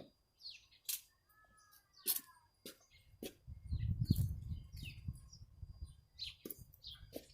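A small bird chirping repeatedly in short, high, falling chirps, among sharp clicks, with a low rumble of handling noise from about three and a half seconds in.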